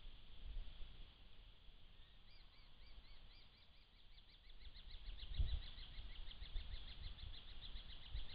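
A bird calling faintly in a long series of short, arched chirps that begins about two seconds in and speeds up as it goes on. Underneath is a low rumble with one thump about five seconds in.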